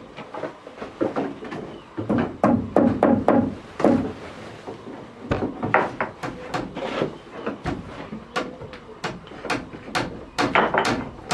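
Rapid, irregular knocks and clunks of hard objects being handled and struck, some coming in quick clusters.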